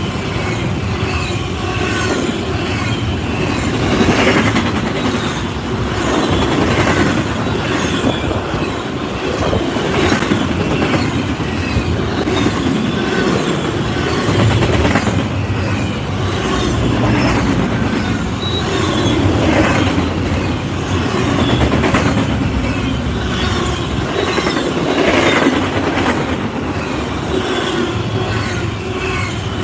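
Double-stack intermodal freight train passing close by: a steady rumble of steel wheels on the rails, broken by repeated clacks as the wheels cross the rail joints.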